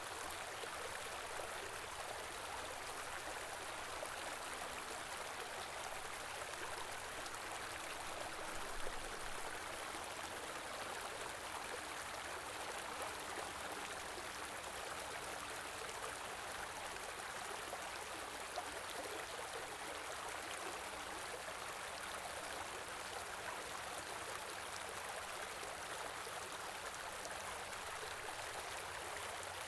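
Small river or stream flowing over rocks: a steady rush of running water, with a faint soft knock about nine seconds in.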